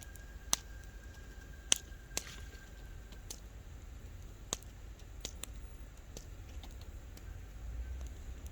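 Wood bonfire crackling: scattered sharp pops at irregular intervals, the loudest about half a second and just under two seconds in, over a low steady rumble.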